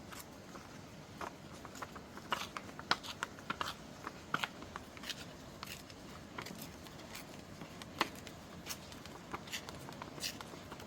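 Sheets of paper being handled and shuffled: irregular crisp rustles and taps, over a steady hiss of rain.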